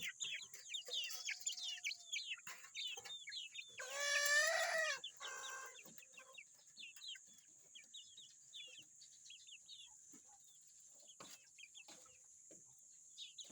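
Chickens peeping and clucking with many short, high calls, and a rooster crowing once, loudly, about four seconds in. A steady high hiss runs underneath.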